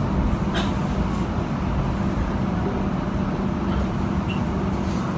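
First-generation Hong Kong Light Rail car running along the track: a steady low rumble and hum from the motors and wheels on rail, with a few faint clicks.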